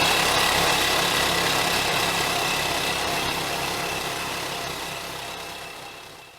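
Quad bike engine running steadily, fading gradually away to nothing at the end.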